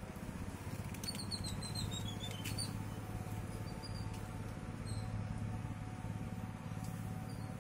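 A small bird chirping in short, quick, high notes, several in a row about a second in and a few more later, over a steady low hum.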